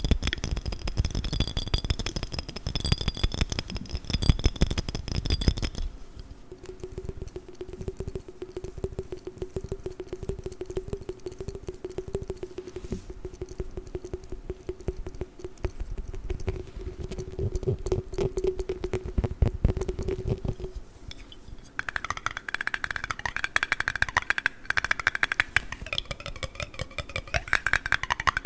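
Rapid fingertip tapping and handling of a water jar, with ringing tones from the glass. The ringing changes twice: high ringing tones at first, a steady lower tone from about six seconds in, then a brighter, splashier texture near the end.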